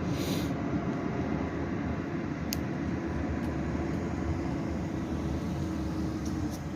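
Tow truck engine running as it pulls away with the crashed car, a steady low rumble with a steady hum that stops near the end. A short hiss comes at the very start.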